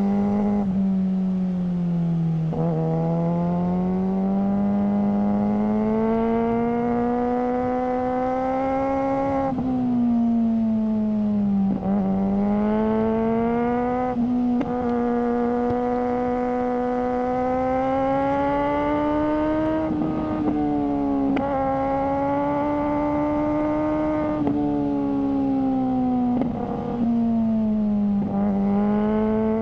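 Suzuki GSR600 inline-four engine running through a GPR Ghost aftermarket exhaust while riding. Its note climbs slowly for several seconds and drops back again, over and over, with a few brief breaks in the sound.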